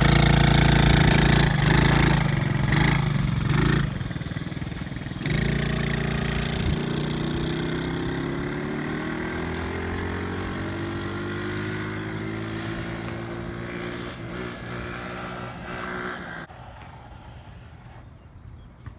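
A small off-road vehicle engine runs loudly close by. About five seconds in it is throttled hard, its pitch climbing as it pulls away, and the sound fades steadily into the distance.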